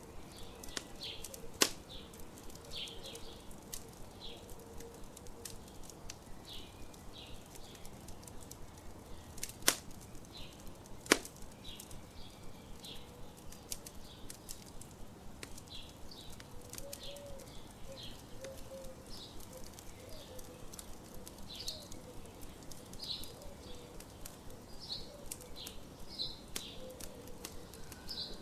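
Campfire crackling, with many small pops and three sharp, loud snaps, under short high bird chirps repeated over and over.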